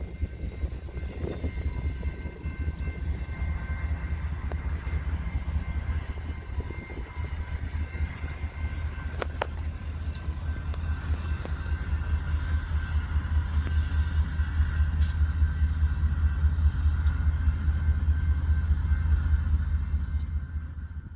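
BNSF grain train rolling past: covered hopper cars and locomotives make a steady low rumble with a faint, steady high whine over it. A single sharp clank comes about nine seconds in.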